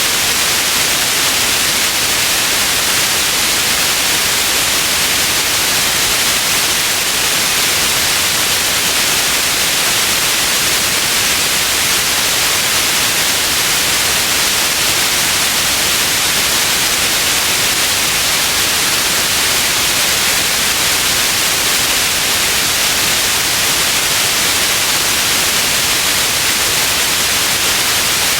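Steady white noise, an even hiss that stays unchanged, with its weight in the upper frequencies.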